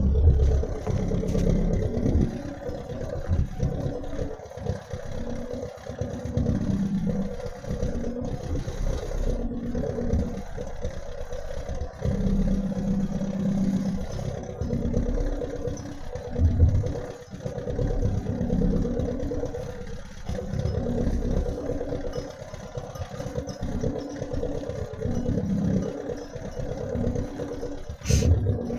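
A small vehicle engine running continuously, its pitch and load rising and falling, with clattering and rattling over it.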